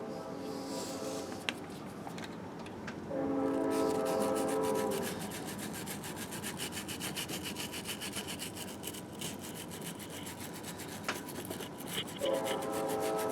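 Hand scrubbing on a Harley Sportster engine case: a brush rubbing back and forth in quick, even strokes. A steady horn-like tone sounds twice over the scrubbing, for about two seconds each time, once a few seconds in and again near the end.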